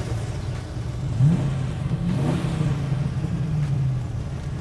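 TVR Chimera's 4-litre V8 revving. The engine note climbs sharply about a second in, climbs again a second later, then holds and slowly eases off.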